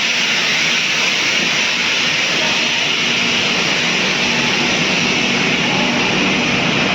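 Steady rushing noise of a passing train, even and unbroken, with a faint low hum underneath.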